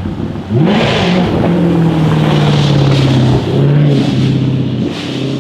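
Jaguar F-Type R's supercharged 5.0-litre V8 through a straight-piped Larini exhaust, blipped quickly about half a second in and then held at raised revs for about two seconds. It drops back, gives a short blip, and settles at lower revs.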